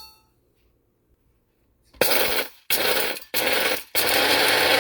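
Electric blade coffee grinder grinding coarse Himalayan salt crystals into powder, starting about two seconds in: three short pulses, then a continuous run. A brief clink comes at the very start.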